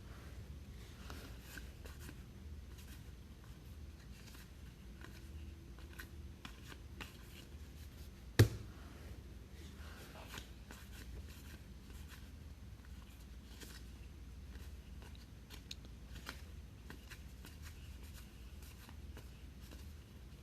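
Trading cards being handled and flipped through, with faint scattered rustles and small clicks and one sharp tap about eight seconds in, over a steady low room hum.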